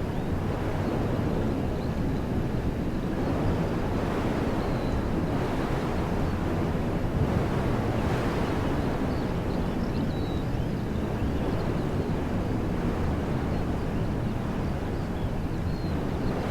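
Wind blowing through woodland trees in a steady rushing hiss, heavy in the low end with some wind buffeting on the microphone. A few faint bird chirps come through now and then.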